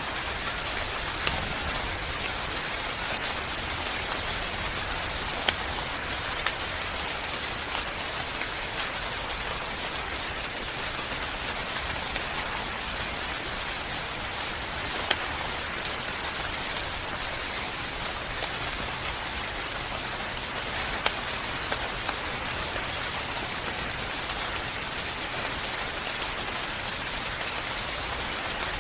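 Steady rain falling, an even hiss with the odd louder, sharper drop standing out now and then.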